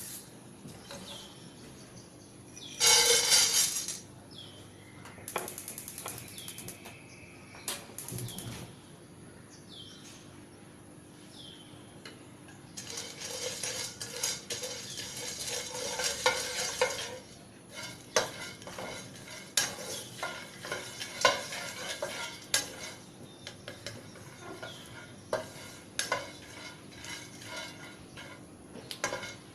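Seeds being stir-fried in a pan, a spatula stirring and scraping them with a rustling, sizzle-like rattle and clinks against the metal. There is a loud burst of rattling about three seconds in, and a thicker stretch of rattle in the middle before it breaks into separate scrapes and clinks.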